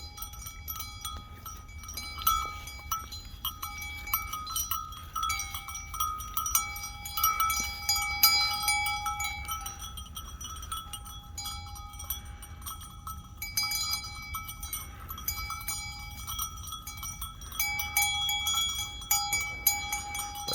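Metal bells ringing on and off, with many small clicks and knocks throughout.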